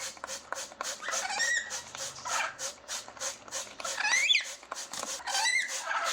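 Parrot calling in a quick run of short squawks and chirps, about two a second, with a higher rising call about four seconds in.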